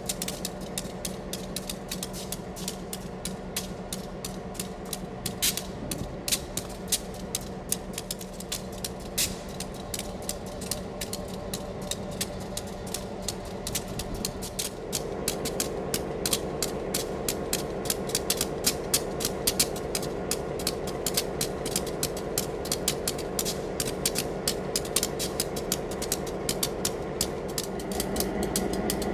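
Ex-Duluth, Missabe & Iron Range SD-M diesel locomotive running, with a steady engine tone under dense, irregular clicking and clanking. It gets louder about halfway through.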